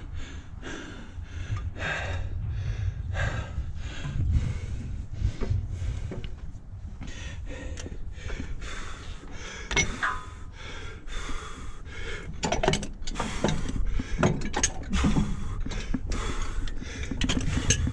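A man breathing hard and straining as he wrestles a heavy tractor part into place by hand, with repeated knocks and scraping as the part is shifted.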